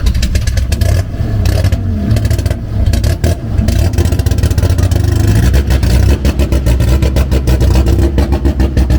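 Honda Civic EF's D16 SOHC four-cylinder engine with a high-lift camshaft revving hard, its pitch rising and falling, with a rapid rough crackle through the exhaust note.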